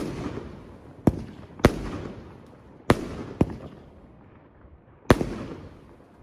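Fireworks exploding: six sharp bangs over about five seconds, each trailing off in a long echoing rumble.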